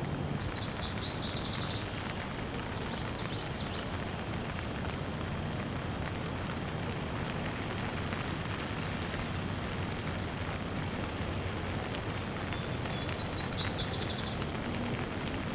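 Steady rain falling, with a songbird singing a quick run of high chirps about a second in, a short one around three seconds, and another run near the end.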